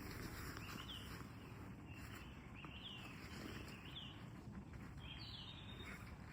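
Small birds chirping: short, quick calls repeated every second or so over a faint steady outdoor hiss.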